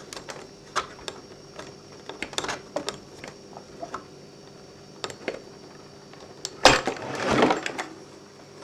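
Small clicks and light knocks of hands working on the metal mechanism of an 8mm film projector, with a louder clunk about two-thirds of the way through followed by a short scraping rattle.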